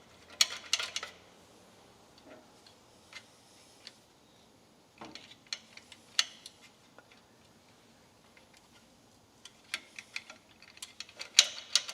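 Scattered light metallic clicks and taps of small hand tools and parts on an engine's carburetor and throttle linkage, in a few short clusters with pauses between.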